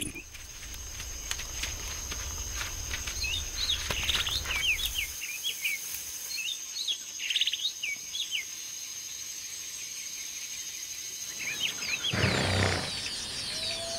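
Wild birds chirping in many short calls for the first half, over a steady high-pitched drone that stops near the end, where a brief burst of noise follows.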